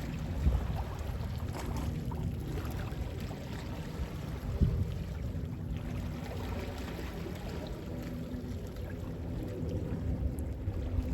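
Gentle sea waves washing, with wind, a steady low wash that swells slightly a few times, over a faint low hum.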